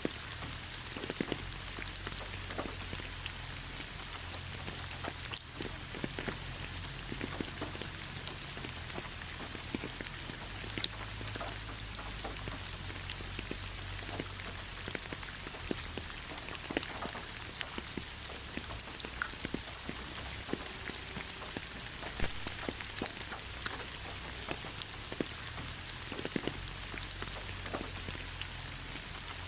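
Steady rain falling, with a constant hiss and many separate drops pattering and ticking irregularly on surfaces.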